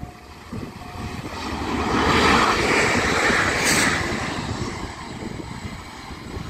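Electric multiple unit passing at speed: the rush of the train and its wheels on the rails swells to a peak a couple of seconds in, with a brief sharp click at its loudest, then fades as it moves away.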